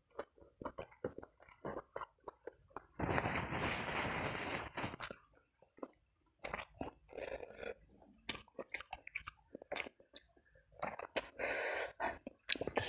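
Close-up mouth sounds of eating by hand: chewing with many small wet clicks and smacks. A loud crunchy stretch lasts about two seconds from around three seconds in, and a shorter one comes near the end.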